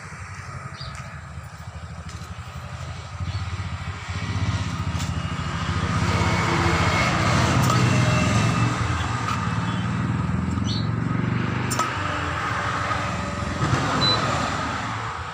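A motor running with a low, fast-pulsing rumble. It grows louder about four seconds in, holds steady, and fades near the end.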